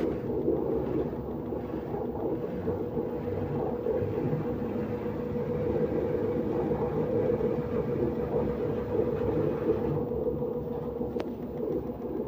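Engine running steadily with a knocking and rattling noise whose cause is unknown to the owner.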